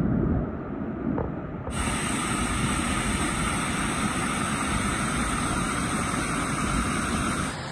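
Rushing water: a low rumble at first, then, after a sudden cut nearly two seconds in, a steady, even hiss that holds until just before the end.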